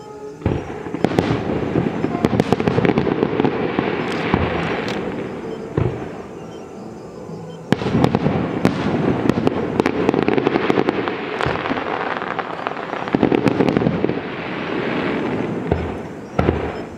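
Fireworks display: shells bursting one after another amid dense crackling, with heavy booms about half a second in, near six seconds, near eight seconds and again just before the end.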